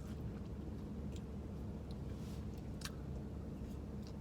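Quiet eating: a few faint, short clicks and taps over a steady low hum.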